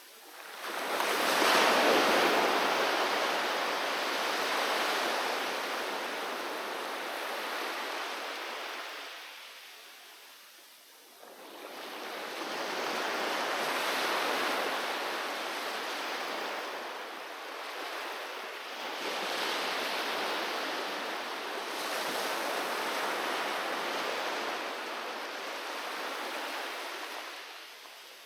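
Sea waves breaking on a beach and washing up the shore in slow surges. The loudest break comes about a second in and ebbs away, another swells up just before halfway, and more follow in the second half before fading near the end.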